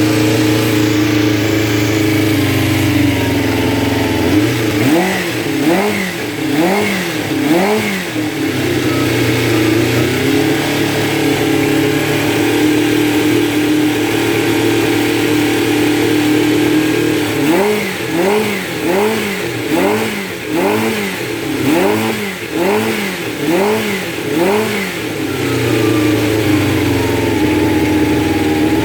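Freshly overhauled Honda CBX400F air-cooled inline-four engine idling steadily, then blipped through a quick run of about four revs, idling again, and blipped about nine more times in quick succession before settling back to idle.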